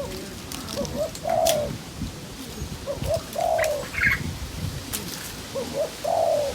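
A dove cooing: three phrases about two and a half seconds apart, each a couple of short notes followed by a longer, drawn-out coo. A short higher chirp is heard once, about four seconds in.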